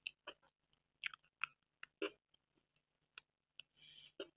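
Close-miked mouth chewing: soft, irregular wet clicks and smacks of someone eating, with a short hiss near the end.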